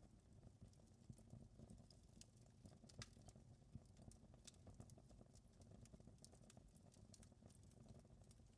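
Faint crackling of a wood fire: irregular small pops and snaps over a low steady rumble.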